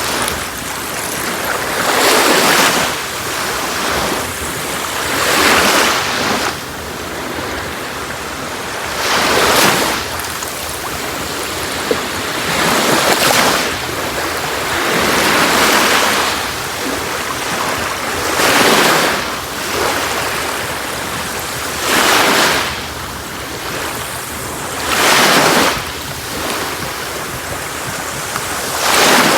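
Sea waves breaking on a beach, a wash of surf that swells every three to four seconds and falls back between breakers.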